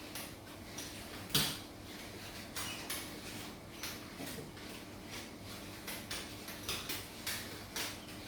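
Scattered light knocks and clicks of household objects being handled, with one louder knock about a second and a half in, over a faint steady hum.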